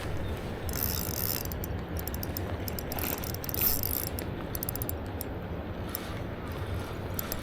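Spinning fishing reel (Shimano Vanford) clicking in quick, irregular runs of ticks as line is worked, over a steady low rumble of river water and wind.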